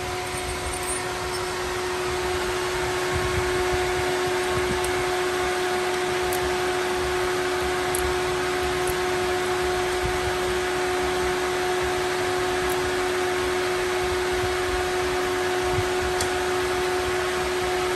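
A steady machine whir with a constant humming tone, unchanging throughout.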